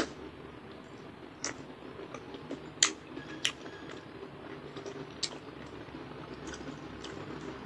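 Close-miked eating of ripe mango cubes cut off the skin: wet mouth smacks and small clicks while biting and chewing, with a loud smack at the very start and a few sharper ones after it.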